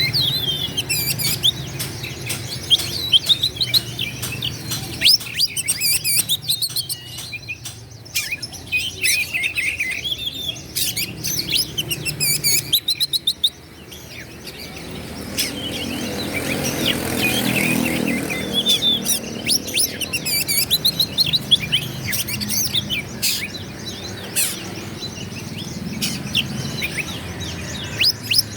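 Oriental magpie-robin (kacer) singing a fast, varied song of whistles and chirps broken by sharp clicking notes. A low rushing noise swells and fades midway.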